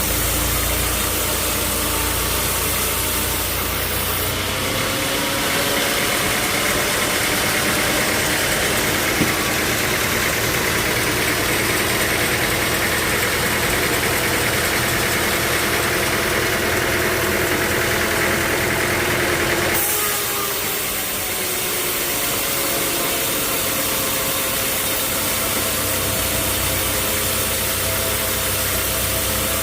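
Sawmill machinery running with a steady motor drone. From about four seconds in, a high hissing band takes over and the low drone falls away; both change back abruptly near twenty seconds in.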